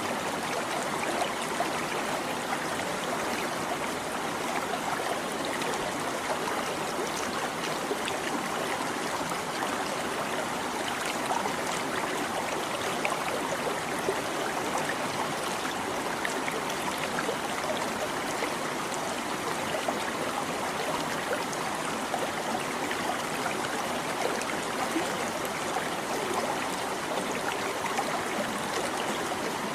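Small stream flowing, with a steady babbling trickle of water.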